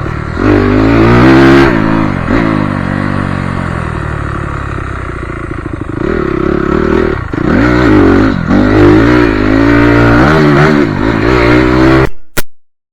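Motocross bike engine revving hard as it rides the track, the pitch climbing under throttle and dropping away as the rider rolls off, several times over. The sound cuts off abruptly near the end, followed by a brief click.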